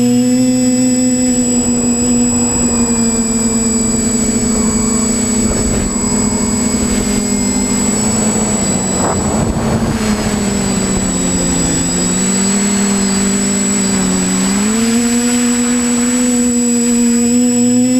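Quadcopter's electric motors and propellers whining steadily. The pitch sinks lower a little past the middle, then climbs back about three seconds before the end, and a rushing noise swells up in the middle.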